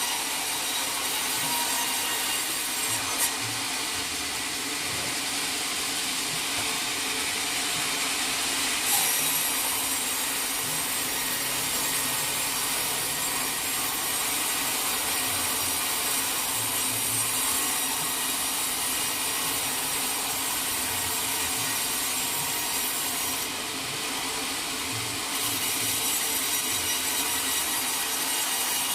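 Sawmill blade cutting steadily through a teak log, a continuous rasping hiss of the saw in the wood. The highest part of the hiss drops away briefly about three seconds in and again for a couple of seconds near the end.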